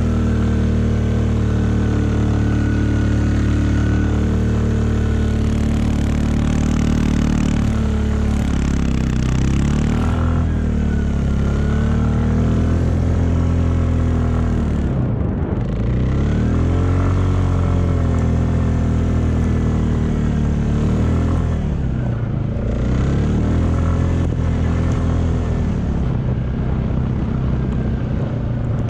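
A vehicle engine running steadily, its pitch dipping and climbing back up several times as the revs change.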